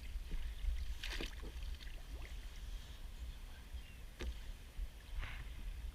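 Faint sounds aboard a kayak while a crab pot is handled: a steady low rumble with a few light clicks and knocks, one about a second in and another about four seconds in.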